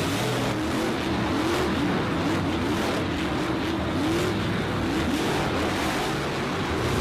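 Race-car engine sound effect: engines revving up and down over a steady rush of noise.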